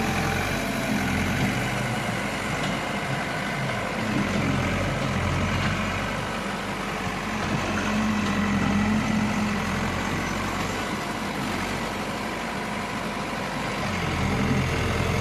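Heavy diesel engine of an earthmoving machine running steadily, its pitch and loudness swelling now and then, most clearly about eight to nine seconds in and again near the end.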